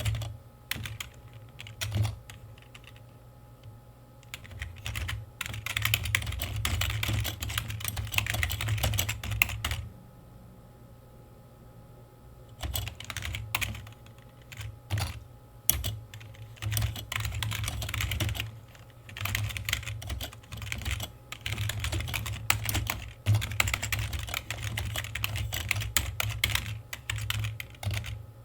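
Computer keyboard typing in runs of rapid key clicks, broken by short pauses of a couple of seconds, with now and then a single louder keystroke.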